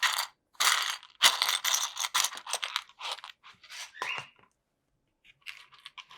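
Loose LEGO pieces clattering and rattling as a hand rummages through them in a bowl. The sound is an irregular clatter of many small plastic clicks, pauses briefly, then turns to fainter clicking near the end.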